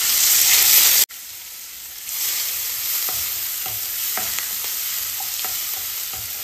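Onions frying in hot mustard oil in a pan, a loud sizzle that drops suddenly about a second in, then builds again to a steady sizzle with light scrapes of the spoon stirring them.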